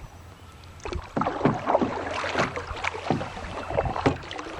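Water splashing and knocking around a canoe as it is worked off a log and steered around it, with irregular short splashes and bumps starting about a second in.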